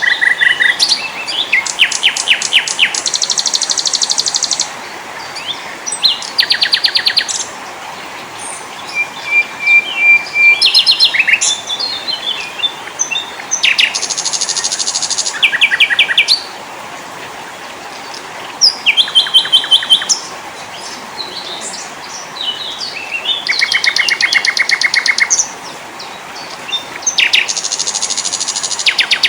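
Mix of small forest songbirds singing: rapid trills and chattering phrases come in short bursts every few seconds, with one brief held whistle, over a steady background hiss.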